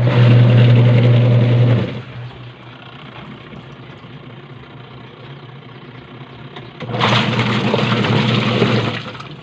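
Washing machine motor driving the agitator in short runs, about two seconds at the start and again from about seven seconds in, with a steady low hum between. The machine is working after its gearbox repair and new motor capacitor.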